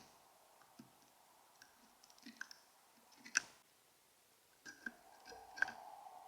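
Scattered sharp taps and clicks from a white-breasted nuthatch working at a Bird Buddy feeder, its bill on seeds and the feeder, the loudest about halfway through. A steady hiss comes in near the end.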